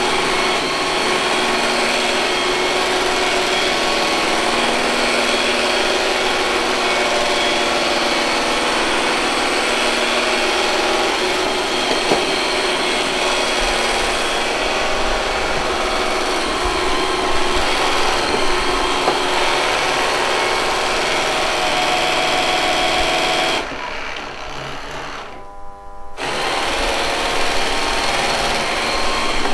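Robot vacuum cleaner running steadily: its suction fan and brush motors make a whirring hum with steady whining tones. About three-quarters of the way through, the sound drops and goes muffled for about two seconds, then comes back at full strength.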